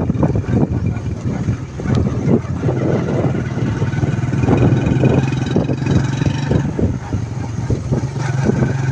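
An engine running steadily with an even hum, overlaid by frequent short knocks and rattles.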